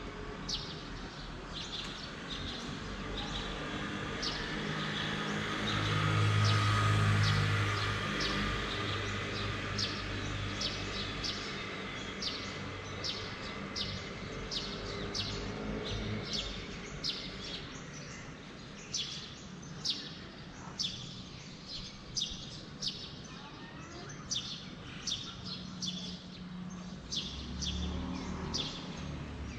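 Small bird chirping: a short, sharp, high call repeated about twice a second, over steady outdoor background noise. A low rumble swells and fades about six to eight seconds in.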